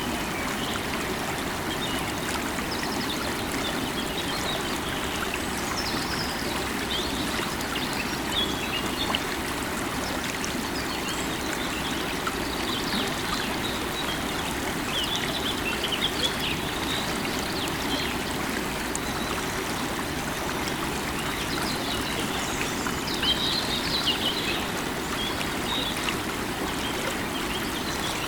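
River water running steadily, with birds chirping now and then over it, most busily midway and again about two-thirds of the way through.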